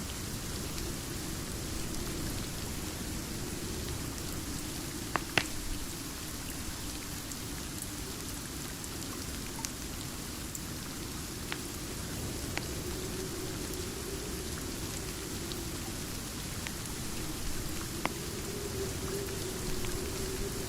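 Steady rain with scattered sharp crackles and pops from a wood fire, the loudest a pair of pops about five seconds in.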